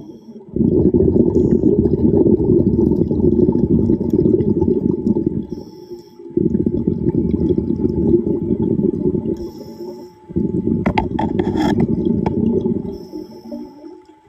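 A scuba diver breathing underwater through a regulator: three long rushes of exhaled bubbles, each lasting a few seconds, separated by short hissing inhalations. A few sharp clicks come near the end.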